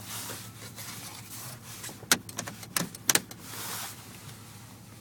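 Four or five sharp clicks and knocks about two to three seconds in, over a faint steady hiss inside a car.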